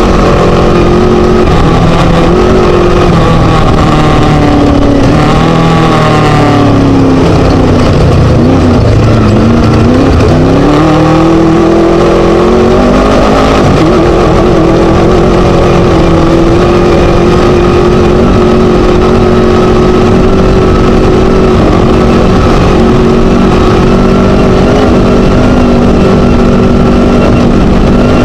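Class 1 Chenowth DR2 desert race buggy's Scat engine running hard, very loud and rough. About six seconds in the revs fall away to a low around ten seconds, climb back by thirteen seconds, then hold high and steady.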